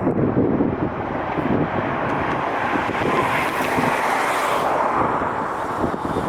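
Wind buffeting the microphone with a gusty rumble. A broad rushing roar swells about halfway through and fades again.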